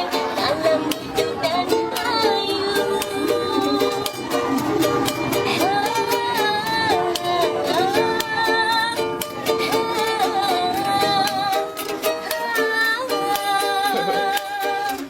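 A woman busker singing a melody in a strong, sustained voice over a quickly strummed small string instrument.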